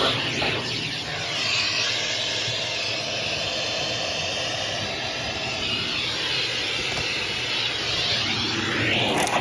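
Vacuum cleaner running steadily with a loud rushing hiss of air, its pitch shifting a few times, most clearly near the end.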